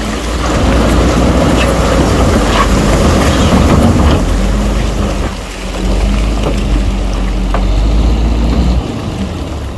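Heavy diesel earthmoving machinery running under load: a loud, steady engine rumble with a low drone and a rough crunching, clattering noise over it. The deepest part of the rumble drops away about nine seconds in.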